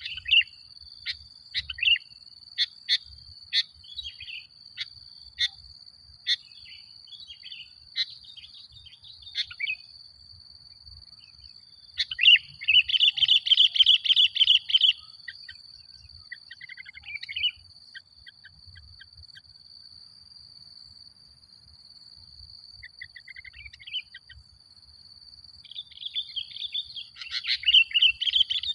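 Sooty-headed bulbul (kutilang) calling: a string of short, sharp notes, then bursts of rapid chattering song about twelve seconds in and again near the end. A steady, thin, high tone runs underneath throughout.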